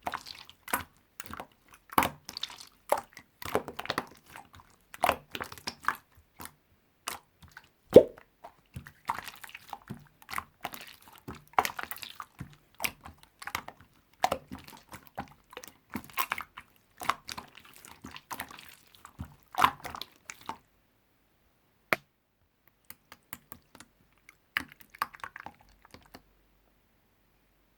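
Slime being squished and pressed by hand, making dense irregular wet clicks and small pops. The clicking stops about two-thirds of the way through, leaving only a few scattered clicks and a short burst near the end.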